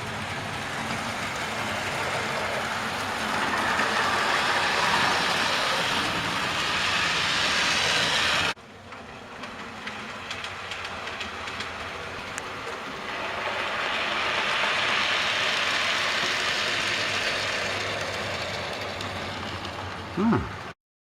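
Model railway locomotive, an old 1970s Flying Scotsman model, running along the track with its motor whirring and its wheels clattering. It grows louder and then fades as it passes, twice, with an abrupt break about halfway through.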